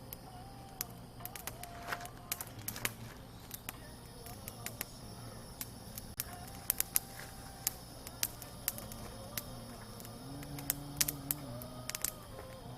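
Wood campfire crackling with irregular sharp pops. Under it a faint, low, hum-like tone holds its pitch and steps between notes.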